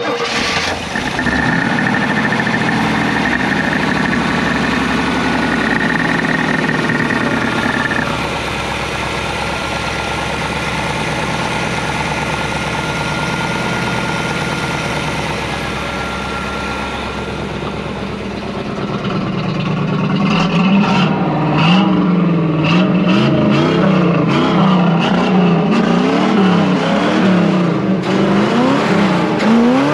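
Camaro engine running steadily at a fast idle, then revved up and down repeatedly in quick throttle blips through the last ten seconds or so.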